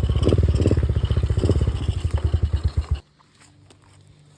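Dirt bike engine running with an even, pulsing beat that slows and loosens near the end, then cuts off abruptly about three seconds in. A few faint clicks follow.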